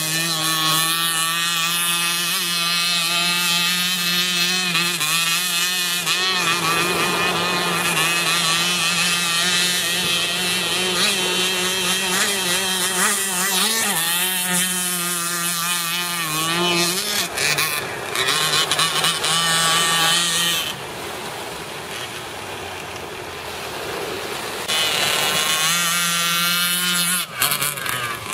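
Gasoline RC speedboat's 26cc Zenoah two-stroke engine with tuned exhaust running at high revs, its pitch wavering and gliding up and down as the throttle changes. About 21 seconds in it drops much quieter for a few seconds, then comes back up to full speed.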